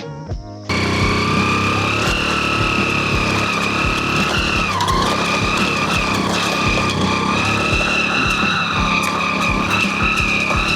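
Hero Honda Splendor NXG motorcycle on the move: its small air-cooled single-cylinder engine running steadily under a loud, steady high whine, with scattered clicks and knocks. The sound starts abruptly just under a second in.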